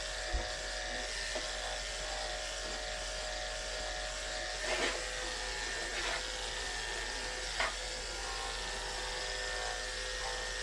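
Andis electric pet clippers running with a steady hum as they shave through a cat's matted fur, with a few brief knocks from about the middle on.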